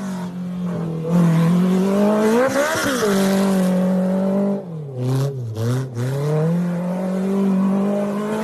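Muscle car engine running at high revs, its pitch climbing to a peak about three seconds in and falling back. It drops off sharply and briefly cuts out around five to six seconds in, then holds steady again.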